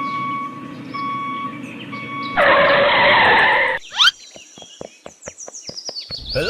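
A string of edited sound effects: repeated short beeps, a loud hiss lasting about a second and a half, a quick rising swoop, then a long falling whistle over a run of sharp clicks.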